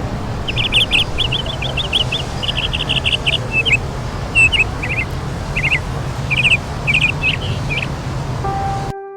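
A bird chirping, a quick run of short, high chirps followed by scattered single chirps over a steady low background noise. Near the end the ambience cuts off abruptly into soft music.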